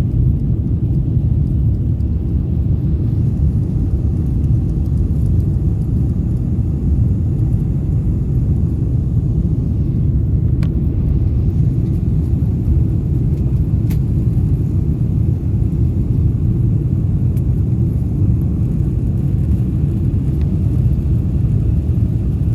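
Steady, loud low rumble of a Boeing 747-400 passenger cabin in flight: engine and airflow noise heard from an economy seat, with a couple of faint ticks about ten and fourteen seconds in.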